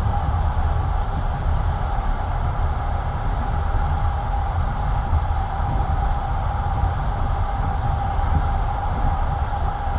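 Passenger train carriage rolling along the track at speed, heard from inside the carriage: a steady low rumble of the wheels on the rails with a constant high hum over it.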